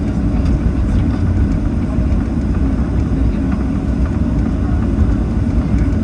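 Boeing 737-800 cabin noise during taxi: a steady low rumble from the CFM56 engines at low taxi thrust and the aircraft rolling on the ground.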